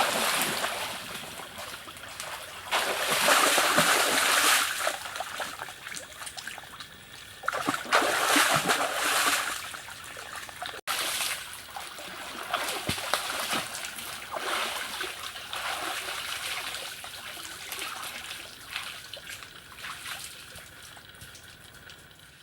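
Water splashing and trickling, in surges that come and go, with a sudden break about halfway through.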